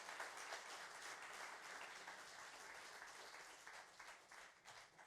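Faint audience applause, many hands clapping, thinning out and dying away near the end.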